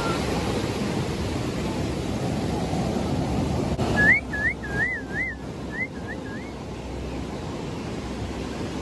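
Ocean surf and wind rushing steadily. About four seconds in comes a quick run of short, clear whistled notes, each sliding up and down, over about two and a half seconds.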